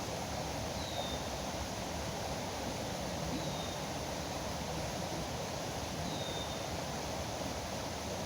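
Steady rush of flowing river water. A bird gives a short, high, falling note three times over it, a couple of seconds apart.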